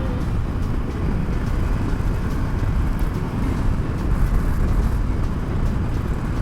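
Wind rush and engine rumble from a motorcycle on the move, a steady low rumble recorded at the rider.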